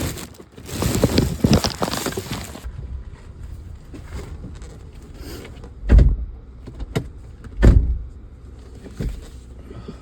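Sounds around a car: a couple of seconds of rustling noise, then two heavy thumps about two seconds apart and a lighter one after, over a low steady hum.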